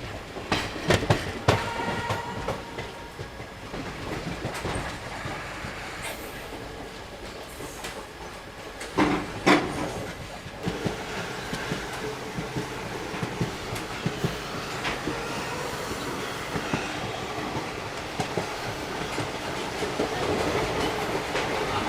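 Moving passenger train's wheels clattering over rail joints, with a steady running rumble, a few sharp knocks in the first couple of seconds and a louder clank about nine seconds in.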